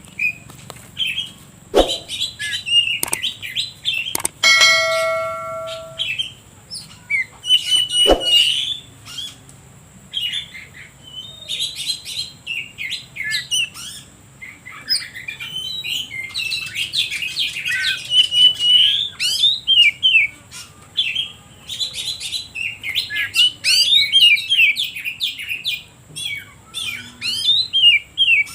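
Oriental magpie-robin (kacer) singing a fast, varied run of chirps, trills and whistles. A few sharp knocks are mixed in, and a brief steady ringing tone sounds about four to six seconds in.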